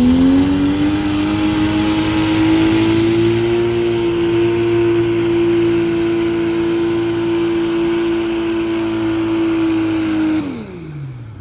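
Turbocharged diesel pickup engine at full throttle on a pulling run: revs climb in the first second and then hold steady under load. Near the end the revs fall away sharply as the throttle is lifted.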